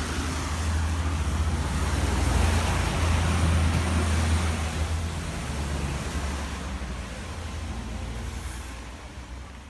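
Road traffic on a wet road in heavy rain: a vehicle's engine rumble and tyre hiss swell to a peak about three seconds in, then fade away as it passes.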